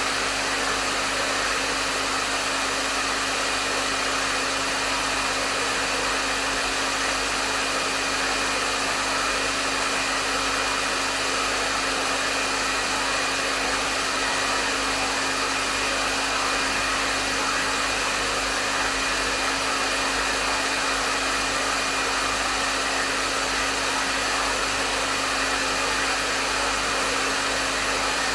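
Hair dryer running steadily at medium setting: an even rush of airflow with a low motor hum and a faint high whine, unchanging throughout.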